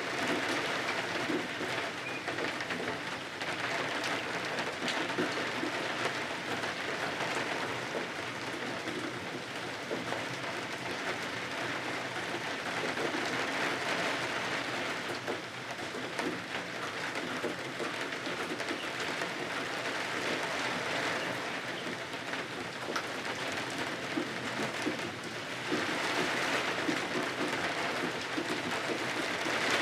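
Steady rain falling, an even hiss that swells and eases every several seconds.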